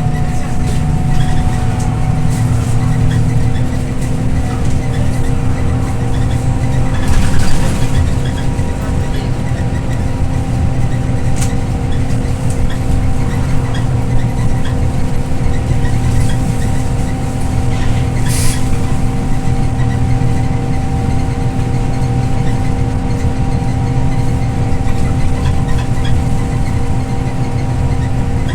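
Scania OmniLink I city bus running along the road, heard from inside the cabin: a steady low engine and road rumble with a constant whine. Two short hisses cut in, about a quarter of the way in and again past halfway.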